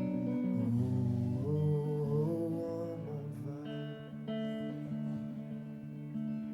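Acoustic guitar playing between the verses of a slow song, with sustained notes and some pitch glides in the first few seconds.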